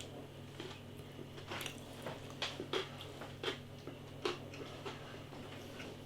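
A person chewing a crispy breaded chicken burger: faint, irregular wet clicks and smacks over a low steady hum.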